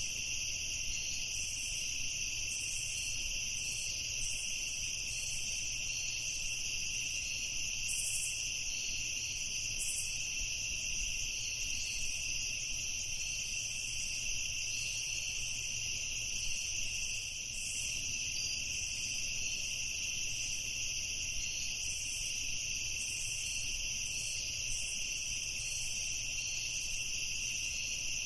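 Night chorus of crickets trilling steadily, with short, higher-pitched insect calls coming and going over it.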